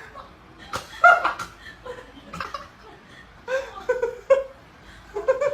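A person laughing in short bursts, about a second apart.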